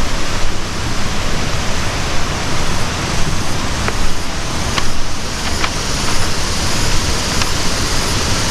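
Waterfall rushing: a loud, steady roar of falling water, with a few faint short ticks a few seconds in.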